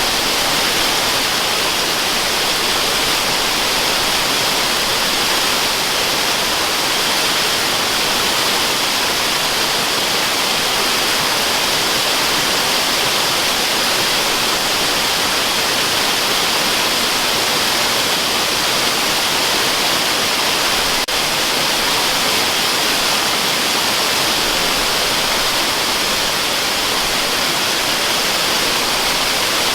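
Waterfall: water falling and rushing as a steady, unbroken hiss, with a faint click about two-thirds of the way through.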